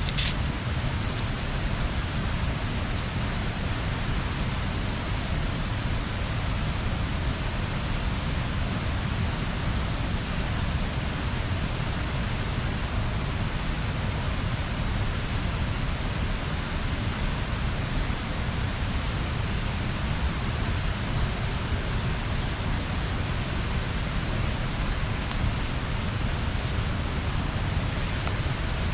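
Bonfire burning: a steady, deep rumbling rush of flame with a few faint crackles.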